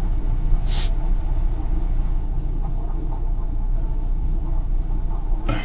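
Steady low rumble of an idling semi truck heard from inside the cab, with a short hiss about a second in.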